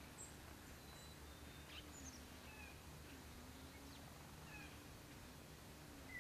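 Faint outdoor ambience: scattered short high chirps and little gliding whistles of small birds over a low, steady hum.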